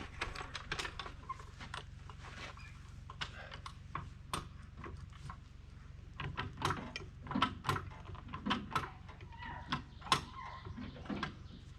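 Irregular metal clinks and knocks of steel over-the-tire track chain being handled, busier in the second half, with a few short squeaks late on.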